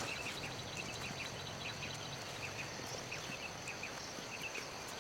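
Rural outdoor ambience: a steady high insect drone with many short, high chirps scattered through it.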